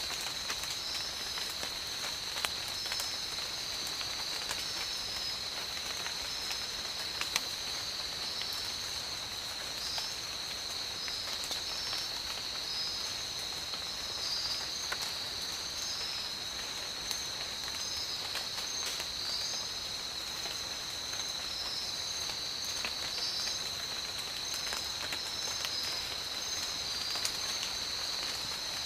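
Steady rain falling, with scattered individual drops ticking sharply. Over it runs a steady high-pitched whine, with a higher pulsing chirp above it.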